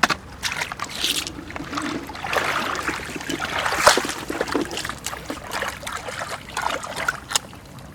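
Shallow flood water splashing and trickling, irregular, with scattered short clicks and a louder stretch a few seconds in, as someone works in the water.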